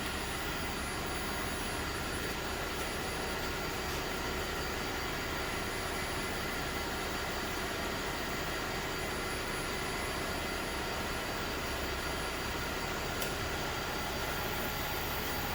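Machine tool running steadily through a light finish pass on a big-block Chevy cylinder head, an even, unchanging hum.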